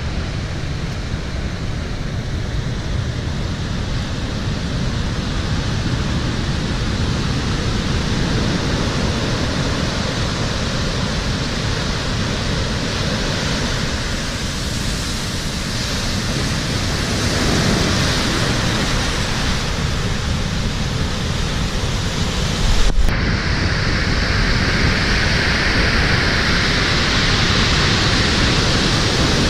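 Rough surf after a typhoon, waves breaking continuously into a dense, even wash of noise, with wind on the microphone. Partway through, the sound breaks off abruptly and resumes with a brighter hiss.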